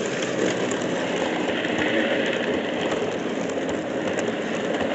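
Model train running on the layout track: a steady rolling noise with many small clicks from the wheels and track.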